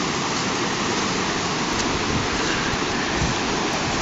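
A river in flood rushing past: a steady, even sound of fast-flowing water, the river running far above its normal level.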